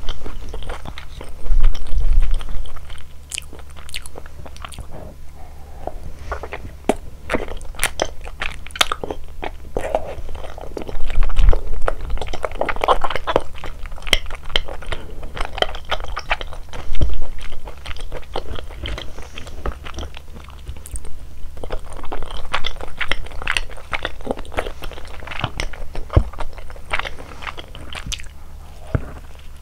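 Close-miked chewing and crunching of malatang, the spicy Sichuan hotpot, with many quick crisp clicks between the bites. A few low thumps come about 2 seconds, 11 seconds and 17 seconds in.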